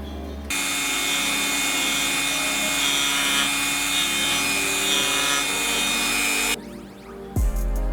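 Rotary tool grinding or sanding the small metal body, a loud abrasive hiss over a steady motor whine, starting abruptly about half a second in and stopping just after six seconds. Music with a beat comes in near the end.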